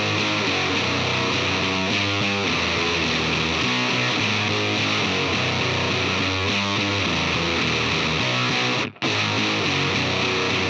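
Electric guitar played through a Palomar Sound Funeral Bell distortion pedal: a heavily distorted riff with changing notes, cutting out for a moment about nine seconds in.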